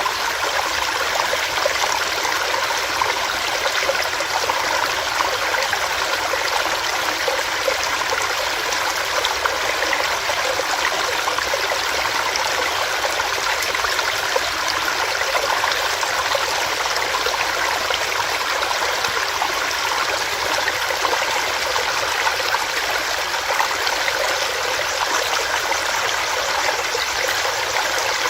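Small rocky stream with water running and splashing over rocks, a steady, even rush of flowing water.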